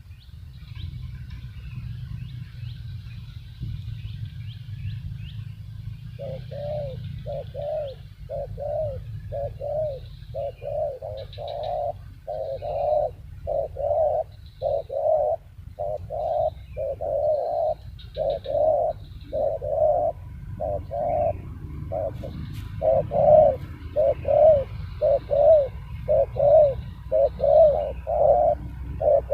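Spotted dove (tekukur) cooing: a long, steady run of short, low coos, starting about six seconds in, with faint chirps of small birds higher up.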